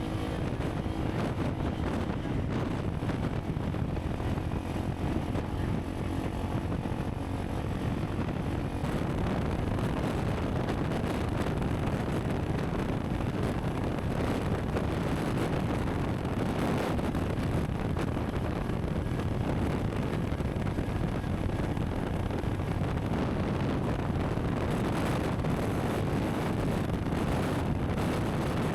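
Honda CRF300 Rally's single-cylinder engine running steadily under way, mixed with wind rushing over the microphone.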